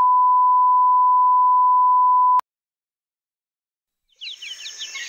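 A steady, high-pitched test-tone beep that cuts off abruptly about two and a half seconds in, followed by dead silence. Near the end, birds begin chirping rapidly over a hiss.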